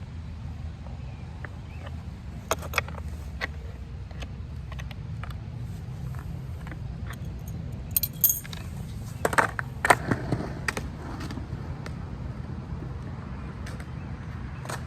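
Metal clinking and clicking of a skate tool on the trucks' kingpin nuts as the new skateboard trucks are tightened, in scattered clicks with a denser run of clinks about eight to eleven seconds in, over a steady low rumble.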